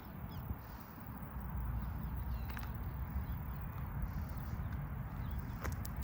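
Footsteps of someone walking on a park path, with a steady low rumble and a few faint, short bird chirps.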